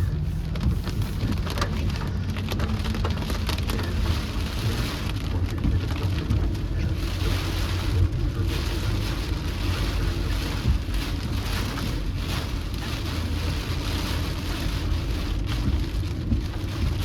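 Steady rain falling on a moving car: a dense patter of small drop ticks over a constant low rumble from the car on the road.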